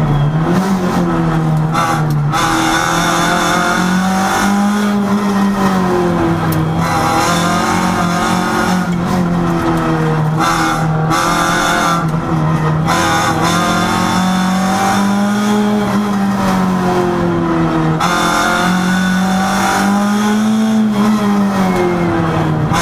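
Rally car's engine heard from inside the cabin, pulling hard and rising and falling in pitch over and over as the driver accelerates, lifts and changes gear through a run of bends.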